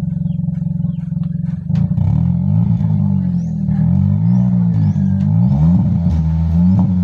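2019 Hyundai Accent engine idling steadily, then revved up and down several times from a little under two seconds in, its pitch rising and falling with each press of the throttle.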